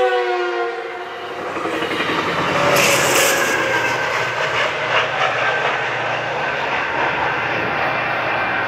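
Train horn chord trailing off in the first second, dropping slightly in pitch, followed by the steady rumble and clatter of the train rolling past.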